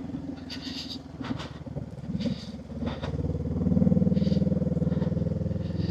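Honda 500 parallel-twin motorcycle engine running on the move, heard from on board; it gets louder and steadier a little over halfway through.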